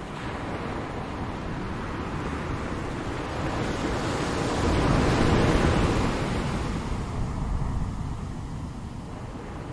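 Ocean surf: a wave builds, breaks about five seconds in, and washes back, over a steady rush of water.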